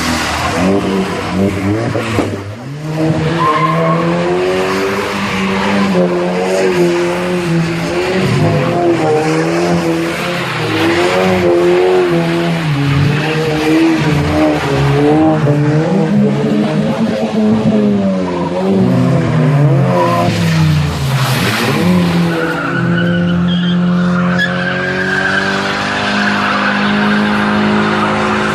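Modified car engine revved hard again and again, its pitch rising and falling with each rev, then settling to a steadier, level note about 22 seconds in.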